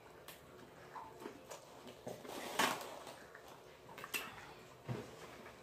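Eating sounds: mouths chewing and biting into fried chicken and french fries, with scattered soft clicks and smacks, the loudest about two and a half seconds in.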